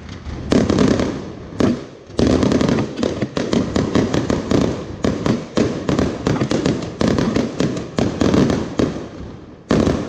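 Fireworks going off in a rapid, dense string of bangs and crackles, with a brief lull about two seconds in and a short dip near the end.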